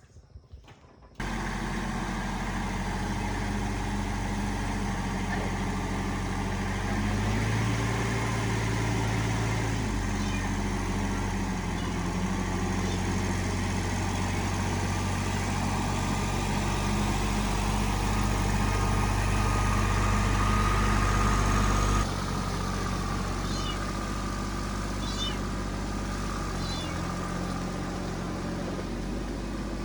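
A motor starts running steadily about a second in, with a low, even hum whose pitch and loudness shift in steps several times. Faint short high chirps sound over it in places.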